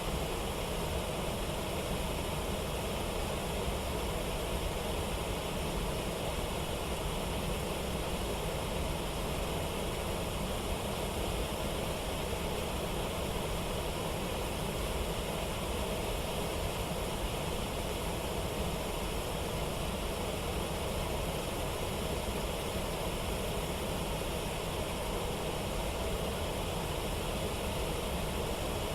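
Steady rushing of a waterfall and river rapids, a constant roar of water.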